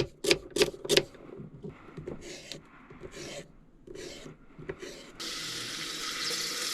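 A few sharp knocks and some rubbing and scraping of kitchen things, then about five seconds in a steady sizzle starts as food goes into the hot Instant Pot.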